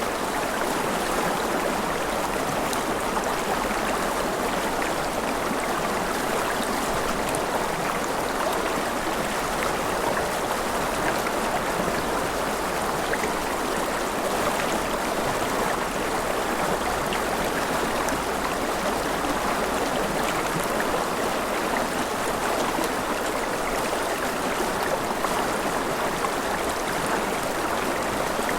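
Mountain river flowing over rapids: a steady, unbroken rush of water.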